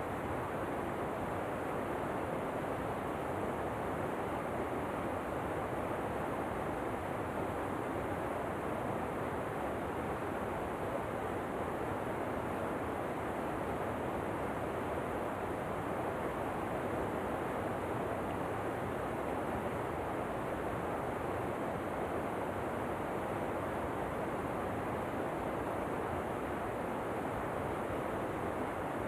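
Steady, unbroken rushing of a waterfall, an even hiss with no changes or separate splashes.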